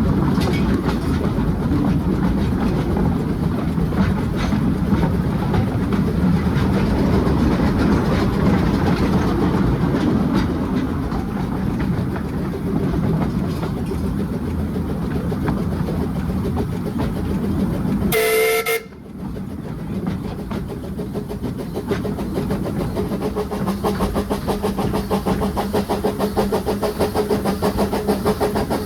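Narrow-gauge steam train running along the line, a steady rumble with wheel clatter on the rails. Just after two-thirds of the way through, locomotive Maid Marion's whistle gives one short blast. A regular beat runs through the last part.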